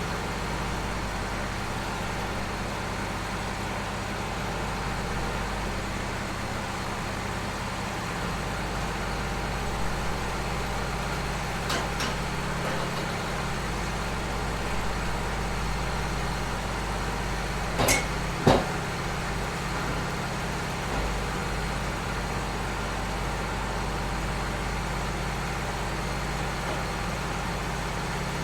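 Engine running steadily at a constant speed, with a few sharp clanks; the loudest two come close together about two-thirds of the way through.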